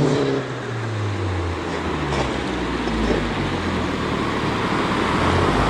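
A car engine running, its pitch falling over the first second and a half, then a steady rumble of engine and road noise that builds toward the end.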